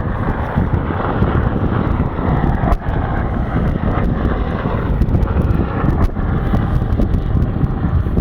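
Kiowa helicopter in flight: loud, steady rotor and engine noise mixed with wind buffeting the microphone.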